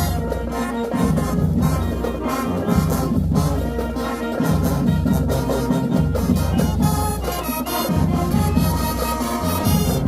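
High school marching band playing a loud brass-led tune, with trombones and trumpets over heavy bass and drums.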